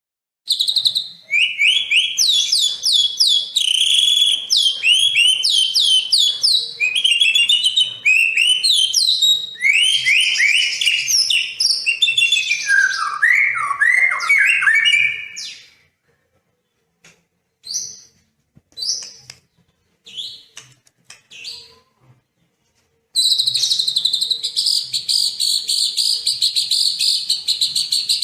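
Songbird singing: a half second of silence, then dense runs of quick, high, falling whistled notes. These give way to a few scattered short notes, and from about 23 seconds in to a continuous high, buzzy trill.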